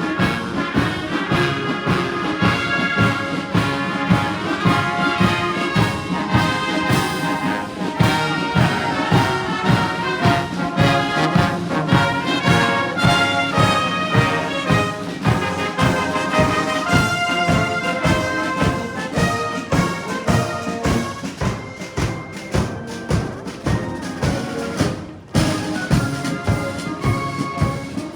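Military brass band playing, brass instruments over a steady drum beat.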